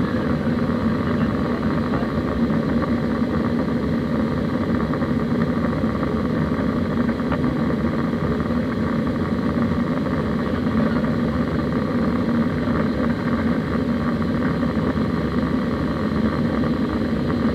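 Steady cabin noise of an Airbus A320 in flight: an even drone of the engines and rushing air, heard from inside the passenger cabin.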